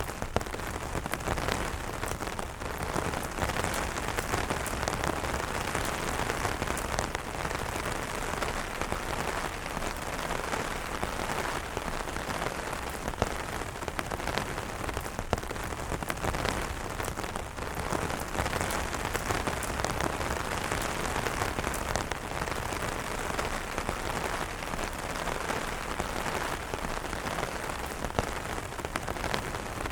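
Steady rain pattering on umbrella fabric, a dense even hiss full of small individual drop taps.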